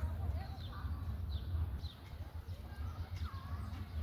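Small birds chirping: short downward-sliding chirps repeating about every half second, over a steady low rumble.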